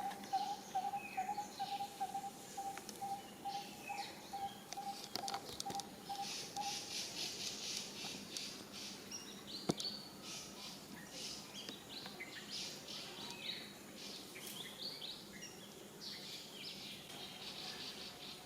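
Birds chirping and trilling in a steady natural chorus. Under it, a low note repeats about four times a second and fades out about seven seconds in, and there is a single sharp click near ten seconds in.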